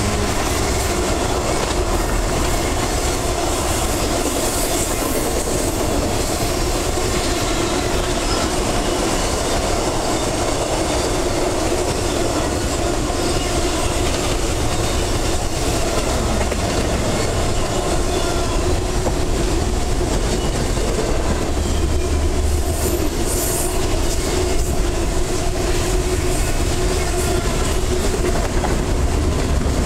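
Intermodal freight cars carrying highway trailers and double-stacked containers rolling past, a steady noise of steel wheels on rail with a low hum held under it.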